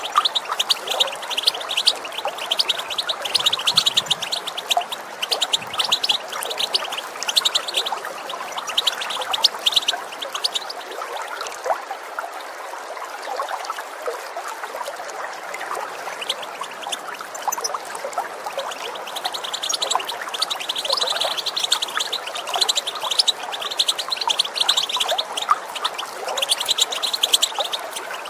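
European goldfinches giving dense, rapid twittering calls over steadily running water. The calls thin out around the middle and pick up again later on.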